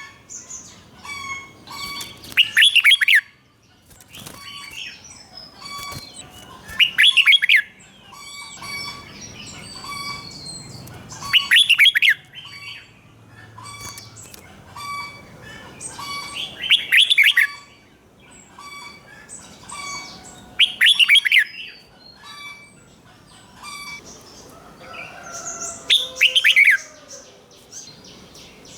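Red-whiskered bulbul singing: six loud, quick phrases of notes about every four to five seconds, with softer chirps and short notes between them.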